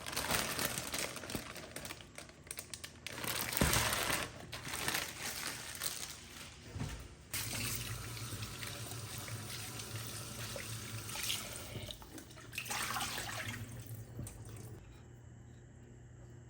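Water running from a kitchen tap into a sink, its flow splashing unevenly with a few short breaks. A low steady hum joins about seven seconds in.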